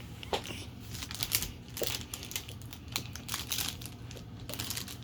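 Packaging crinkling and rustling with many irregular small clicks and taps as items are unwrapped by hand.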